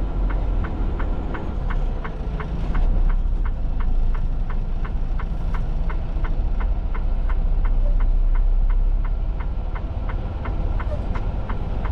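Semi-truck cab: steady low engine and road rumble, with a turn-signal relay clicking evenly about three times a second.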